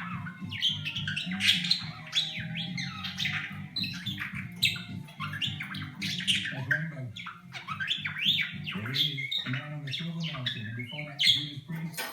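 Budgerigar chattering with a rapid run of quick rising and falling whistles and chirps, its R2-D2-like imitation of robot beeps.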